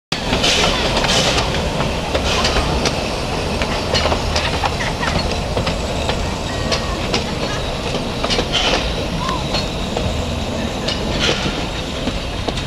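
Train rolling along the rails with a steady rumble and many short clicks of the wheels over the track, cutting in suddenly at the start.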